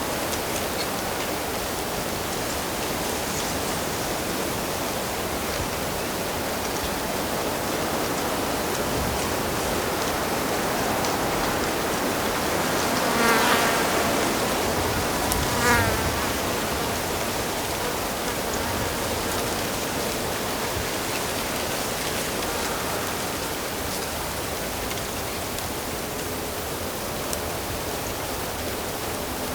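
Steady rush of flowing stream water, with a flying insect buzzing past twice about halfway through.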